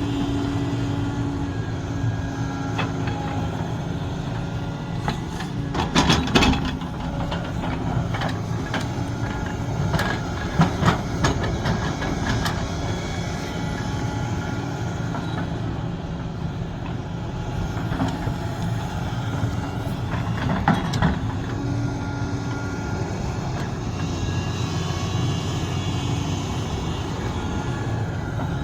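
Sumitomo SH370LHD-6 excavator running steadily at work, its diesel engine humming, with sharp metal clanks and knocks now and then, a cluster about six seconds in and more around ten to twelve and near twenty-one seconds.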